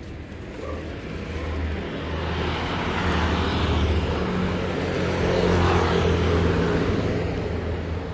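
A motor vehicle passing by: its engine and road noise swell up over a few seconds, peak near the middle, and fade away.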